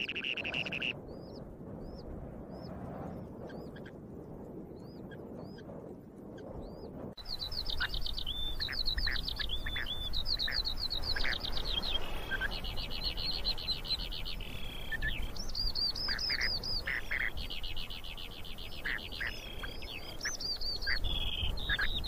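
Birds calling: short upslurred chirps repeated at under a second apart. After an abrupt change about seven seconds in comes a busier run of rapid pulsed trills mixed with chirps.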